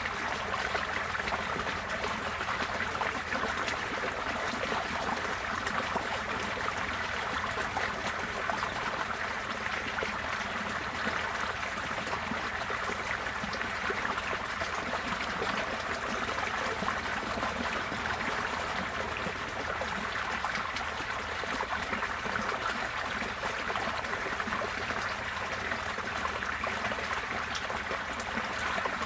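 Receding floodwater flowing and splashing steadily like a babbling stream.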